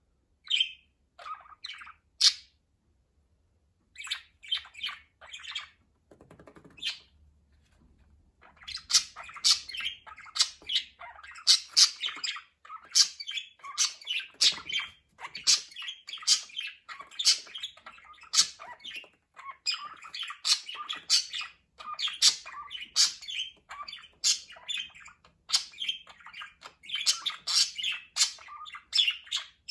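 Pet budgerigars chirping and squawking: a few short, scattered calls at first, then steady busy chattering full of sharp chirps from about eight seconds in.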